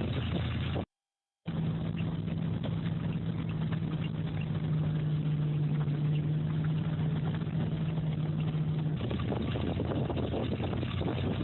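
A machine's engine running steadily, broken by a brief dead silence at a cut about a second in. A steady hum sits over the engine noise until about nine seconds in, after which the engine sounds rougher.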